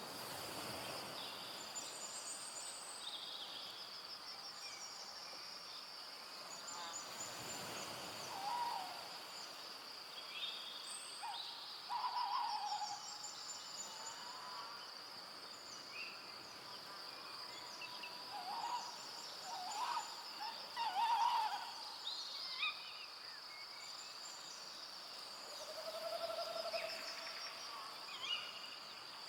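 Forest ambience at dusk: a steady high insect trill throughout, with scattered short bird chirps and a series of short, lower calls, one held a little longer near the end.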